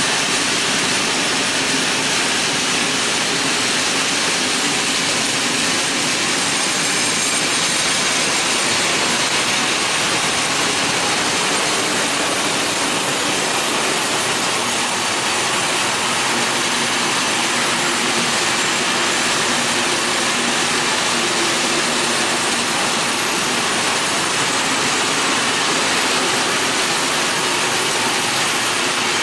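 Open-top coal wagons of a freight train rolling past on the rails: a steady, continuous noise of steel wheels on track.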